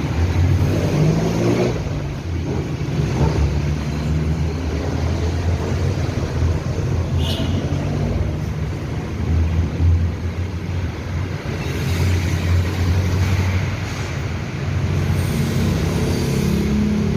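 A steady low engine hum, like a vehicle running at idle close by, with a short high click about seven seconds in.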